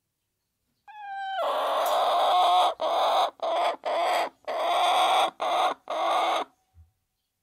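Chicken calling loudly: a clear note about a second in, then a long harsh stretch broken into about half a dozen short pieces, ending near the end.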